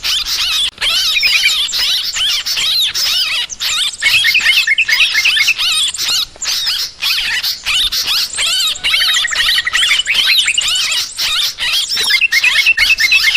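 Yellow-vented bulbuls (trucukan) calling in a loud, continuous chatter of overlapping chirps and warbles. This is the agitated 'ribut' calling played as a lure to draw birds in.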